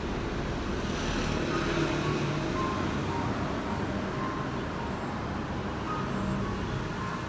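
Steady low rumble of background road traffic, with no saw running.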